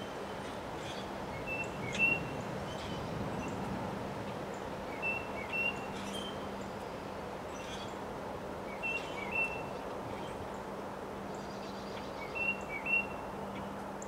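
A songbird calling a short phrase of two or three quick notes four times, about every three and a half seconds. Under it runs a steady rush of wind through bare trees and a faint steady hum.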